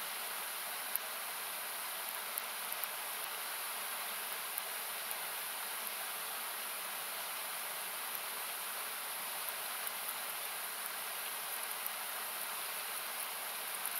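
Steady rushing noise of a nearby river, heavy in the treble. Scattered small crackles and pops from a wood campfire break through it about a dozen times.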